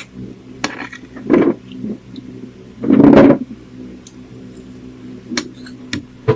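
A spoon clinking against a bowl a few times while champorado (chocolate rice porridge) is eaten, with mouth sounds of eating. The loudest is a half-second eating sound about three seconds in.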